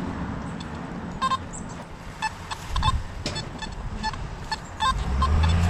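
Metal detector giving short, flat-pitched beeps at irregular intervals as the coil is swept over the ground, over a low rumble of passing traffic that grows louder near the end.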